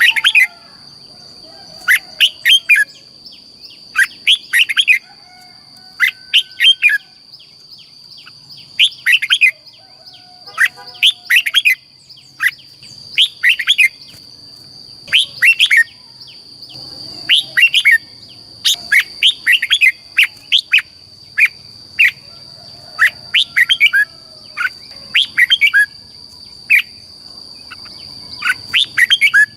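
Red-whiskered bulbul singing: short, quick phrases of a few chirpy notes every second or two, over a steady high-pitched whine.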